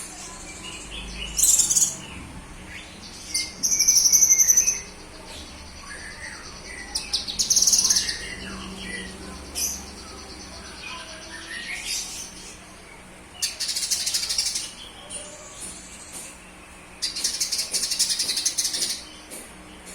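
Cucak kinoy songbird singing in repeated bursts of high, chattering notes, about six phrases with pauses between them.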